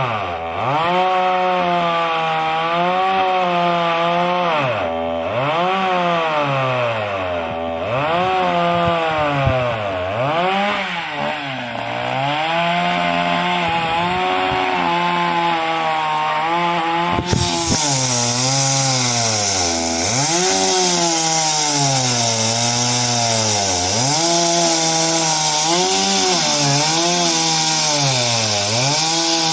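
Two-stroke chainsaw cutting through the trunk of a large fallen tree. Its engine pitch sags each time the chain bites into the wood, then climbs back, over and over. About halfway through, a brighter, hissier cutting sound comes in.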